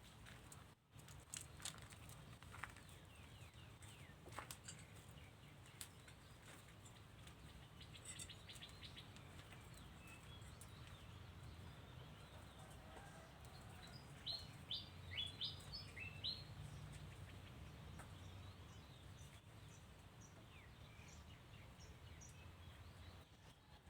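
Faint, sparse bird chirps: a few short high chirps come in a quick cluster past the middle, over a low steady hum and scattered faint clicks.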